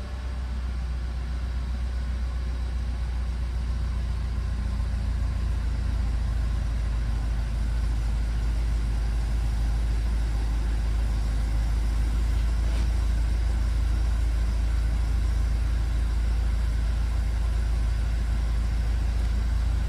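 2015 BMW sport wagon's engine idling steadily just after a cold start, a constant low rumble that grows slightly louder over the first few seconds and then holds even.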